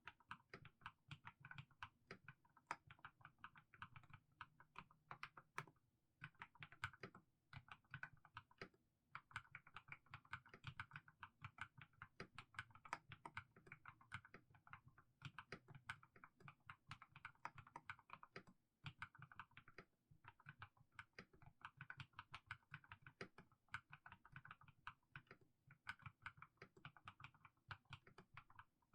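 Mechanical keyboard with fully lubricated Haimu Sea Salt switches being typed on slowly, a steady run of soft keystroke clacks, several a second, broken by a few short pauses.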